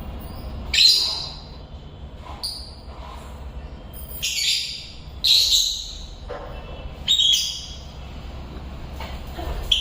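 African lovebirds giving short, shrill calls, about six of them at irregular intervals, each loud and lasting under a second.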